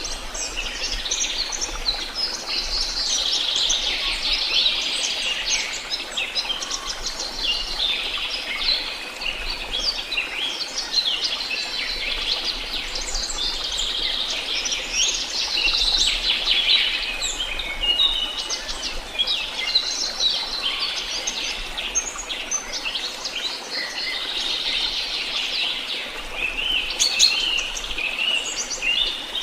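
Many songbirds singing and chirping at once, a dense overlapping chorus of short high chirps and trills with no break.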